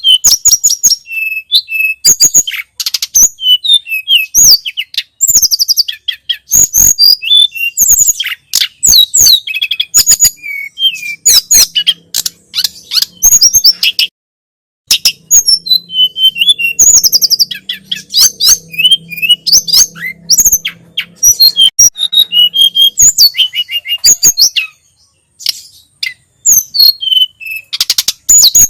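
Tledekan gunung (sulingan gunung) songbird singing a fast, varied song of high chirps and quick whistled glides, with a brief pause about halfway through. A faint low hum sits under the song in the middle part.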